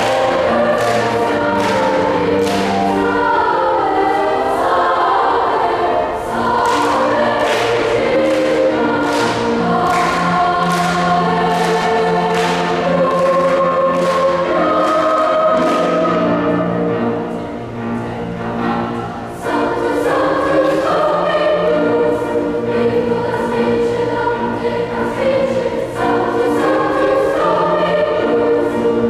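A mixed school and alumni choir singing a gospel-style song with accompaniment, sustained low notes held beneath the voices. The sound thins briefly a little past halfway, then the full choir returns.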